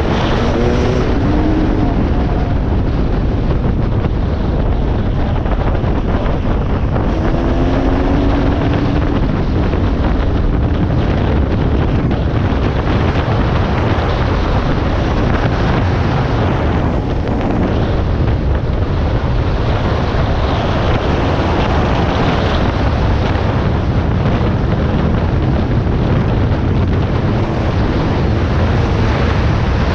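Heavy wind noise on the microphone over a running dirt bike engine, whose pitch rises briefly near the start and again about eight seconds in.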